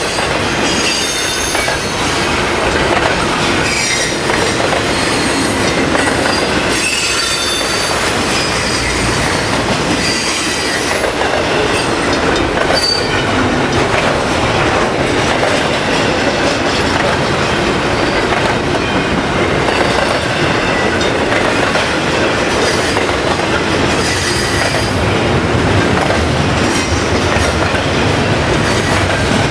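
Double-stack intermodal freight cars rolling past close by: a steady, loud rumble and rattle of steel wheels on the rails. Short high squeals come and go throughout.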